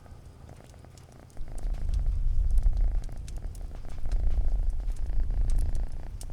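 A cat purring: a low rumble that comes in about a second and a half in and swells and eases in slow waves with each breath. Faint scattered crackles sound through it.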